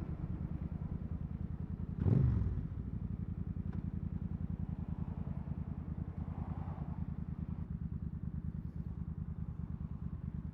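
Suzuki Marauder cruiser motorcycle engine running steadily with an even exhaust pulse. About two seconds in, a louder vehicle passes briefly, its pitch falling as it goes by.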